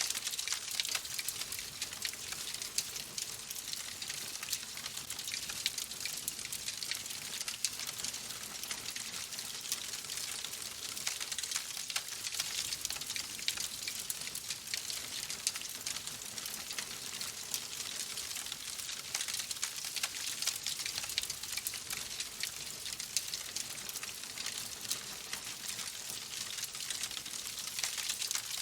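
Crackling fireplace: a steady hiss dotted with many small, quick pops and snaps.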